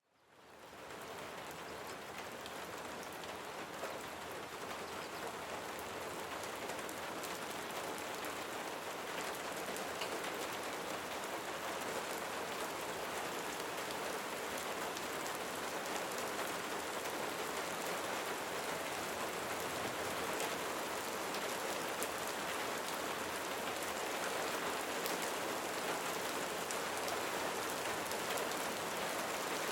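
Steady rain falling on a surface, an even hiss dotted with individual drop ticks, fading in over the first second and slowly growing a little louder.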